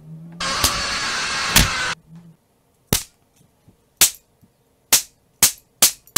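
Belt-lash sound effects: sharp single cracks that come closer and closer together toward the end. Before them, a loud harsh burst of noise starts about half a second in and cuts off after about a second and a half, with two cracks inside it.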